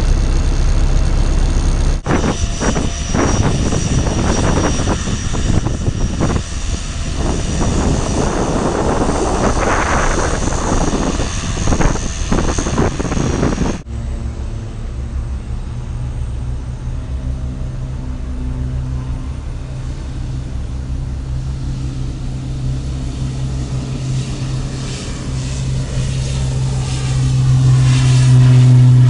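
Aircraft engine noise in edited segments. For the first half it is a loud rushing engine noise with a high whistle. After a sudden cut about halfway through, a steady low engine drone grows louder toward the end with a sweeping whoosh as the aircraft passes close.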